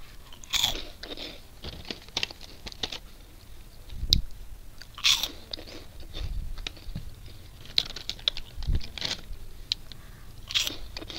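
Crisp packaged snacks being bitten and chewed: irregular crunching throughout, with louder bites about half a second in, around four to five seconds, and near the end.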